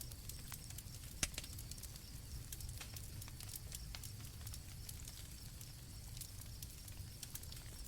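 Campfire crackling with frequent sharp pops, one louder pop about a second in, over a low rumble, with crickets trilling faintly and steadily.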